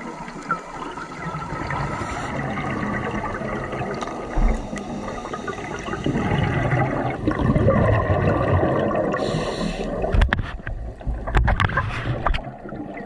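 A scuba diver breathing through a regulator underwater: exhaled bubbles gurgling, which swell about six seconds in, with a short hiss of an inhale about nine seconds in and a crackle of rising bubbles after it.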